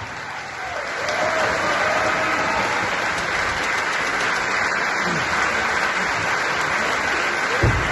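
Audience applauding, building up over the first second and then holding steady, with a single low thump near the end.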